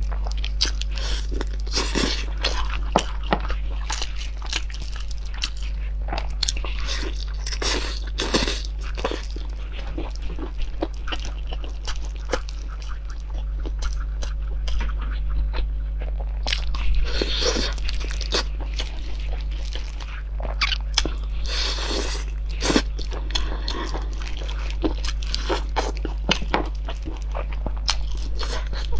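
Close-up chewing and biting into glazed chicken drumsticks: repeated crunchy bites at irregular intervals over a steady low hum.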